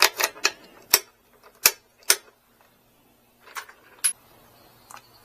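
A run of sharp, irregular clicks, about nine in five seconds and loudest in the first two, from handling the e-bike's handlebar controls.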